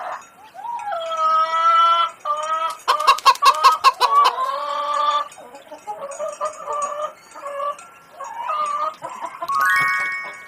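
Chickens calling: hens clucking in a series of calls, with long drawn-out calls and a quick run of sharp clucks about three seconds in.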